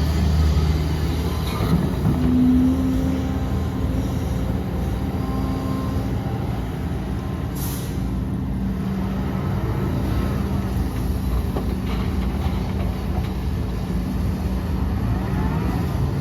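Heavy diesel earthmoving machinery, an excavator and dump trucks, running steadily, with a short hiss a little under halfway through.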